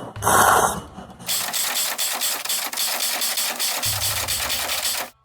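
Cold soba noodles being slurped: two short sharp sucks, then one long continuous slurp with a fast rattling texture that cuts off suddenly near the end.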